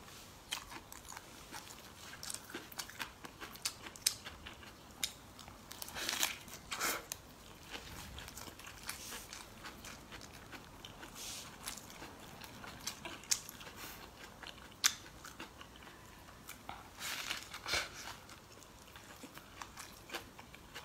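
Close-up biting and chewing of a raw leafy-green wrap: irregular crisp crunches, with louder clusters of crunching about six and seventeen seconds in.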